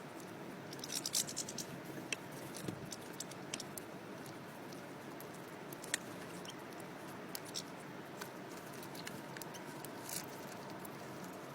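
European goldfinches feeding on a sunflower head: irregular sharp clicks and scratches of beaks picking and cracking the seeds, a quick cluster about a second in and single loud clicks near the middle and near the end, over a steady low hiss.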